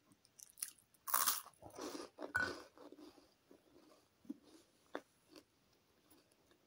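Close-up crunching and chewing of a crisp cheese twist stick: a run of loud crunches from about one to two and a half seconds in, then quieter chewing clicks.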